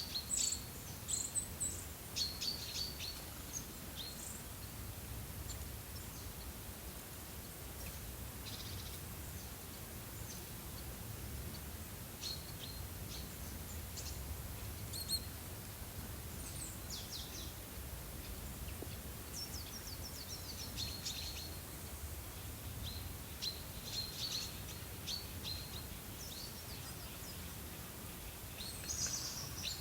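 Small songbirds chirping and trilling in scattered short bursts over a steady low background rumble.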